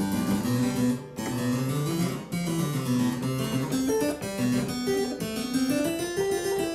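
Harpsichord being played: quick runs of plucked notes moving up and down, with short breaks about one and two seconds in.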